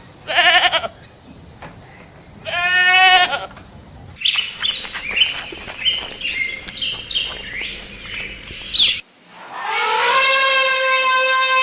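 A run of animal calls: two short, wavering pitched calls in the first few seconds, then several seconds of bird chirping, then one long, steady call near the end.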